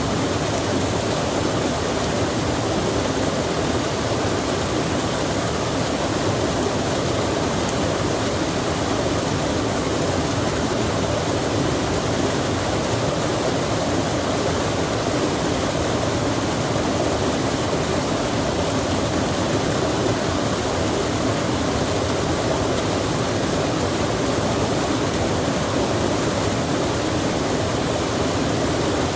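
Steady rushing of flowing water, like a mountain stream or waterfall: one even, unbroken noise with no changes.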